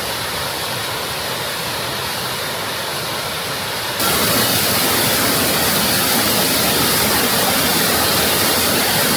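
Waterfall: a steady rush of falling water that jumps louder about four seconds in.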